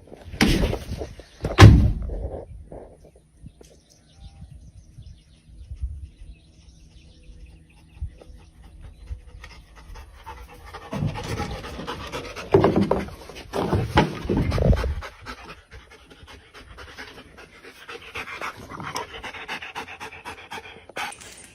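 A dog panting, with a few louder sudden sounds near the start and again about halfway through.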